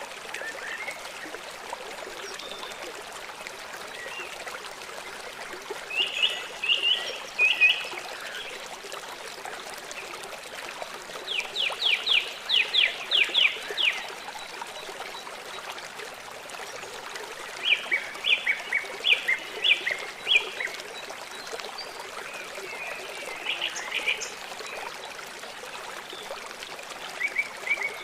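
Small songbirds singing in short bursts of rapid repeated chirps and quick downward-sweeping notes, five phrases with pauses between them, over a steady background hiss like trickling water.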